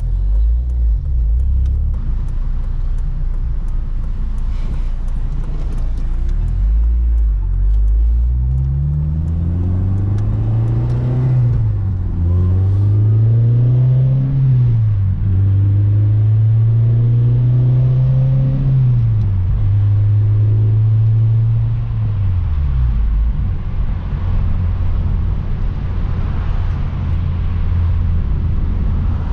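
A car's engine and exhaust under way. About eight seconds in the engine pulls up in pitch, drops at a gear change, pulls up again, shifts once more and holds a steady cruise, then eases off a little past twenty seconds to a low steady drone.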